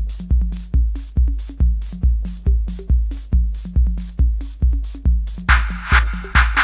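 Early-1990s rave track on a drum machine: a deep kick on every beat, a little over two a second, with hi-hats between the kicks. Near the end a rushing synth swell builds and leaves a held tone.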